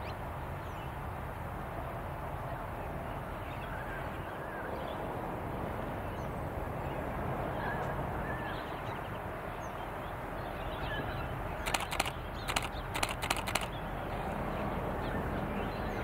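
Distant diesel locomotives of an approaching freight train rumbling steadily, growing a little louder toward the end, with birds chirping. About three quarters through, a quick run of about six harsh, sharp calls.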